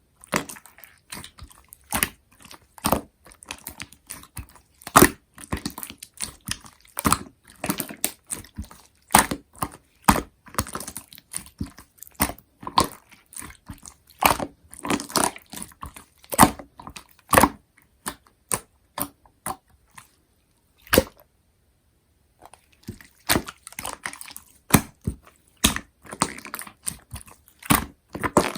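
Cola-themed slime being squished and poked by hand, giving irregular sticky clicks and pops several times a second, with a pause of a second or two about three-quarters of the way through.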